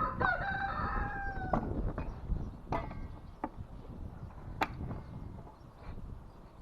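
A single pitched, held call or squeal of about a second and a half, then three or four sharp clicks or knocks.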